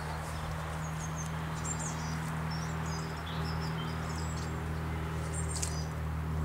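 Woodland birds singing: scattered short high chirps and trills, heard over a steady low hum.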